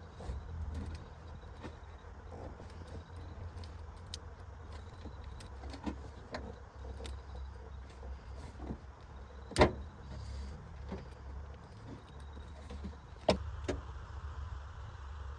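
Scattered clicks and metallic knocks of work on a car, two of them sharp and loud, about ten and thirteen seconds in, over a steady low hum.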